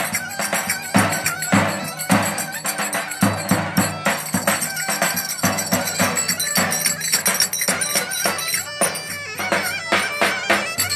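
Turkish folk dance music: a reedy wind instrument carries the melody over a steady, driving drum beat with jingling percussion.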